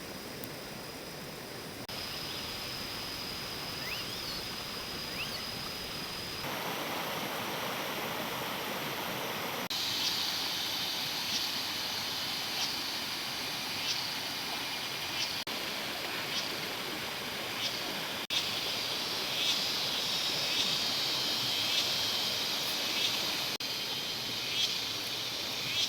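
Outdoor forest ambience: a steady rushing noise like running water, with high-pitched insect or bird calls that grow busier from about ten seconds in. The background shifts abruptly a few times.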